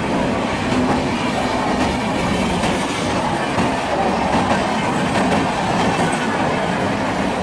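Coaches of an Indian Railways express train passing at speed close by: a steady loud rumble with the clickety-clack of wheels over the rail joints.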